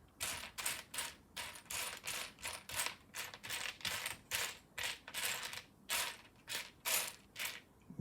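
Hands sifting through a pile of loose LEGO bricks, the plastic pieces clattering in quick, repeated rattles about two a second.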